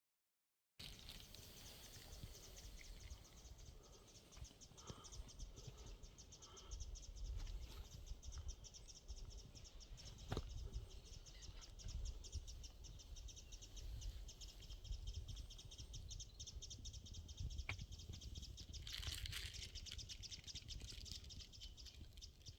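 Faint outdoor ambience: a continuous high, rapidly pulsing chirring call, from an insect or bird, under a low rumble, starting about a second in.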